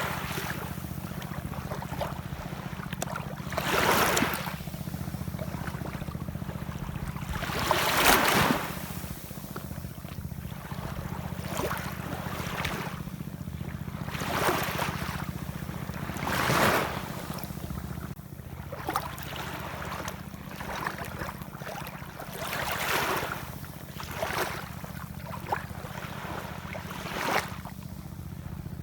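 Ocean waves washing and splashing in, one rush of water every few seconds, over a steady low rumble.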